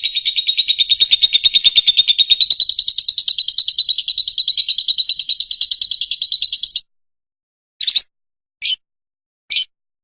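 Fischer's lovebird singing: a fast, continuous run of high chirps that stops about seven seconds in, followed by three short separate high calls.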